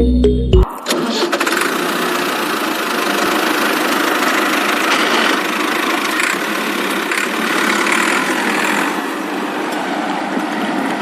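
Music cuts off under a second in, then a small electric motor of a DIY mini water pump runs with a steady, dense buzzing whir.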